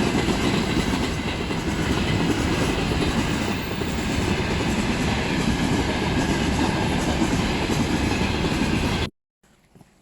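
A train passing close by, with a loud, steady rumble and clatter of wheels on the rails. It cuts off suddenly about nine seconds in.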